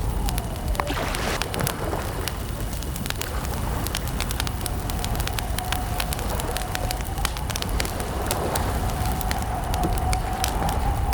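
Wood campfire crackling: many sharp, irregular pops and snaps over a steady low rumble, with a faint wavering tone underneath.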